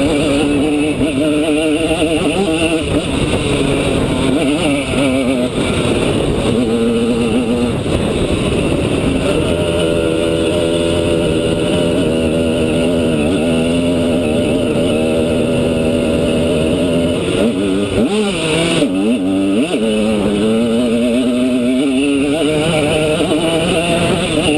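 Simson S51 Enduro's two-stroke single-cylinder engine running under way, its revs rising and falling as the throttle is worked. About three quarters of the way through the revs drop off briefly, then climb steadily again.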